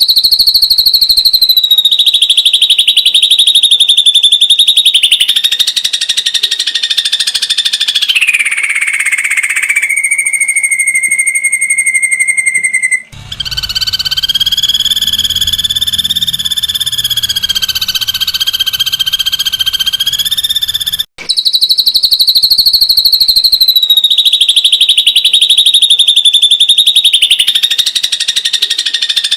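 Ashy drongo giving a long, very rapid rattling trill ('tembakan'), its pitch holding level and then stepping down. There are brief breaks about 13 and 21 seconds in, and after the second break the same sequence repeats.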